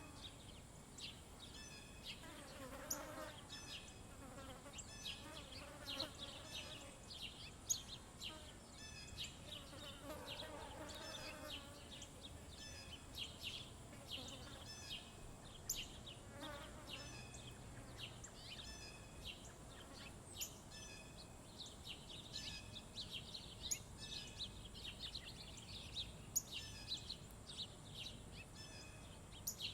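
Small songbirds chirping at a feeder: many short high chirps and calls in quick succession, over a steady high-pitched insect drone.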